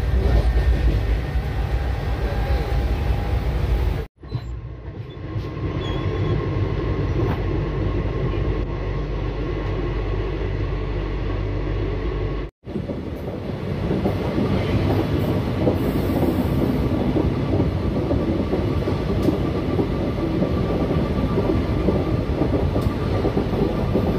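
Indian express train running at speed, heard from inside the coach by the open door: a steady rumble and rattle of wheels on rail. It breaks off abruptly twice, about four and twelve and a half seconds in.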